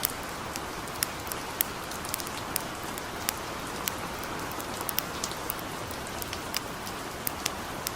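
Steady hiss of gentle rain, mixed with irregular sharp pops and crackles from a wood campfire, several each second.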